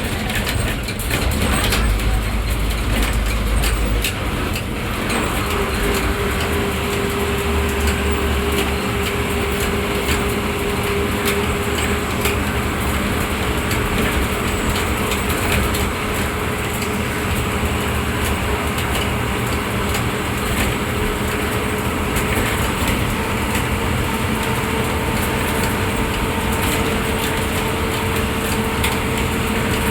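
An Ashok Leyland MSRTC bus running along the road, heard from inside the driver's cabin: steady engine and road noise with frequent rattles. A steady whine comes in about five seconds in.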